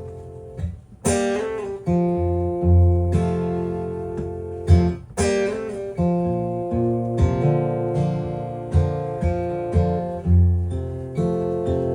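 Acoustic guitar playing an instrumental break in a country song: strummed chords over alternating bass notes, with no singing.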